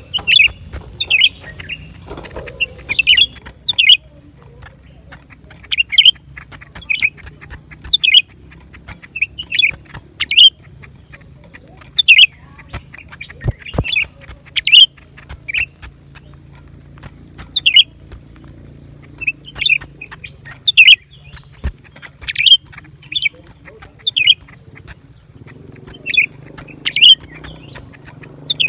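Blue-winged leafbird calling: short, sharp high notes in quick groups of two or three, repeated about once a second with a couple of brief pauses, over a faint steady low hum.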